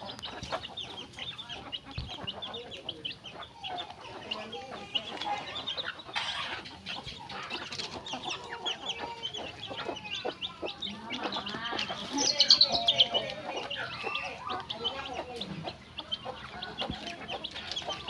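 Chickens clucking amid constant quick, high chirping calls, with a louder burst of calls about twelve seconds in.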